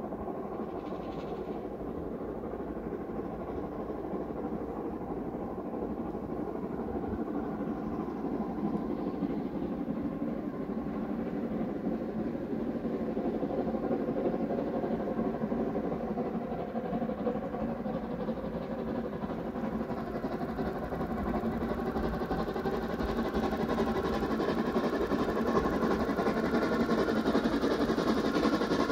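Approaching train, a steady mechanical running sound growing gradually louder as it nears.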